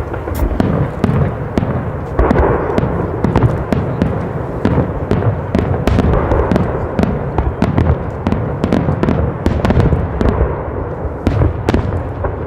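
Fireworks going off in rapid succession: a dense, continuous barrage of crackling reports and deep booms.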